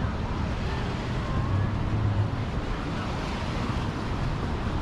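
Wind noise on the camera's microphone over a steady wash of road traffic.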